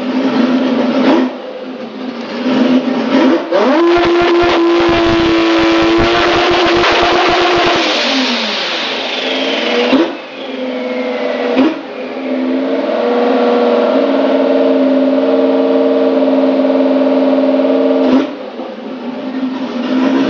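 Big-turbo Toyota 2JZ straight-six in a drag Corolla revving hard, loud throughout. About four seconds in the revs climb and hold high over a rapid stutter, then fall away with a falling turbo whistle. After two sharp cracks the revs are held steady for several seconds, then dropped.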